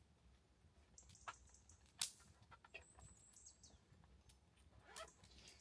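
Near silence with a few faint scattered clicks and knocks, the sharpest about two seconds in, and a few faint, high bird chirps.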